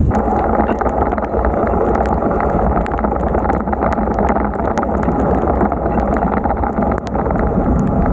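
Wind buffeting the microphone of a bicycle ridden in heavy rain, over a dense hiss of wet road spray that cuts in suddenly at the start, with many scattered ticks of raindrops.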